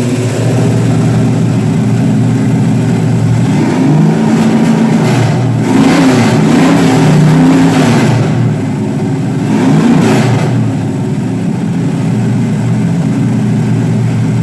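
A 1973 Dodge Challenger's 360 stroker V8 exhaust, with a steady idle. From about four to eight seconds in, the engine is revved in several blips, and it is revved once more near ten seconds before settling back to idle.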